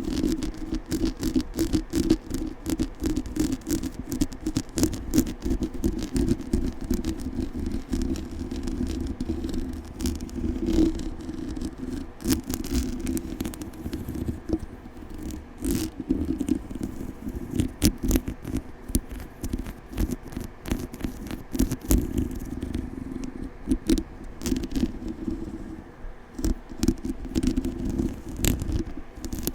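Microphone being scratched aggressively and fast: a dense, unbroken run of scraping and crackling right on the mic, with a steady low hum underneath.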